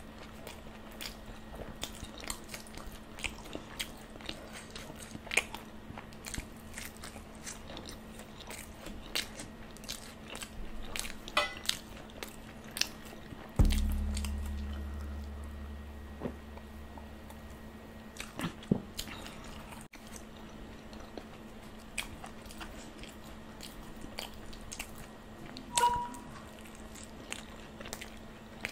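Close-miked eating of bhatura (puffy fried bread): biting and chewing with many small wet mouth clicks. About 14 s in there is a single sharp knock with a low boom that fades over a couple of seconds.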